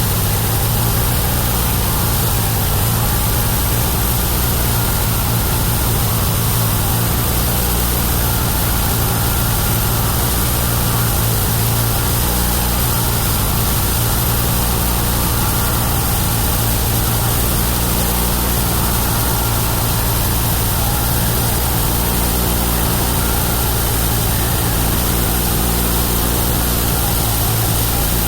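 The 31 hp engine of a homemade bandsaw mill running steadily at constant speed, with a dense hiss over its low drone.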